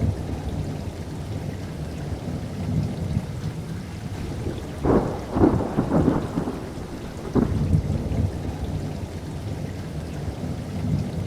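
Steady rain with a low, rolling thunder rumble. A burst of sharper thunder cracks comes about five seconds in, with one more crack about two seconds later.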